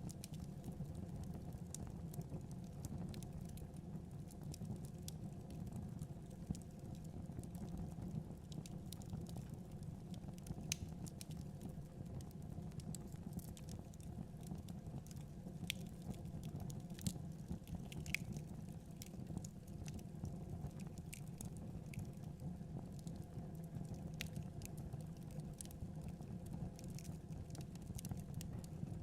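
Fire burning in a fireplace: a steady low rumble with frequent sharp crackles and pops scattered throughout, a few louder pops about halfway through.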